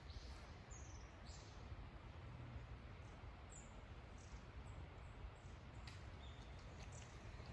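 Faint bird calls: a few short, high chirps scattered over a low steady rumble, with a couple of light clicks near the end.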